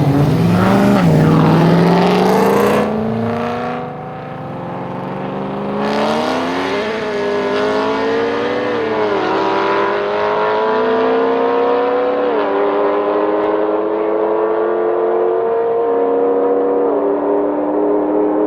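Supercharged V8 of a G-Power-tuned BMW M3 E92, with Akrapovic exhaust, under hard acceleration. The engine is loud for the first few seconds, eases off around three to four seconds in, then pulls again, its pitch climbing and dropping suddenly at three upshifts.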